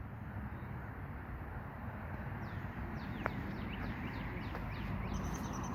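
A low steady rumble, the Ford Coyote 5.0 V8 of a Fox-body Mustang idling, with birds chirping over it from a few seconds in: quick runs of short falling notes, then a high trilling note near the end.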